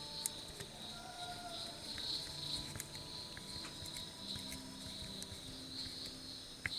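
Insects, such as crickets, chirping steadily in a high, pulsing band, with scattered faint light clicks.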